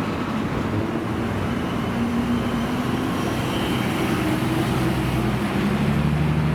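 Car engines running amid the noise of surrounding traffic, with a louder, deeper engine note coming in near the end.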